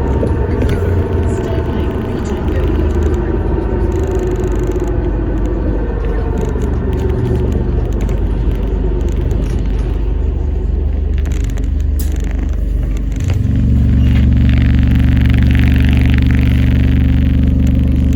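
Alexander Dennis Enviro400 MMC hybrid double-decker bus heard from inside: a whine from the hybrid drive falls slowly in pitch as the bus slows. About thirteen seconds in, a deeper steady drone suddenly cuts in, the diesel engine starting up, and a hiss runs over it for a few seconds.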